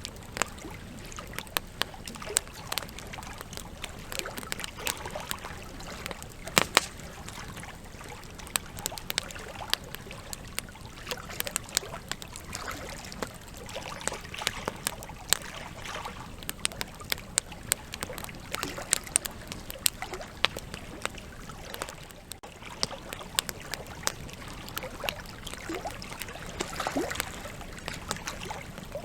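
Wood campfire crackling, with frequent sharp, irregular pops of burning logs over a steady low hiss of flame.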